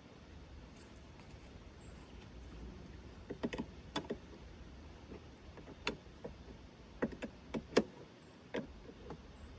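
A dozen or so sharp, irregular knocks and clicks, bunched between about three and nine seconds in, the loudest near the end, over a low steady rumble.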